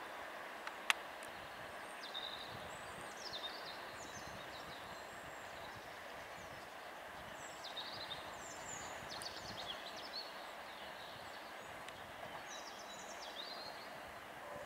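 Birds chirping in short falling notes, several times, over faint steady background noise, with one sharp click about a second in.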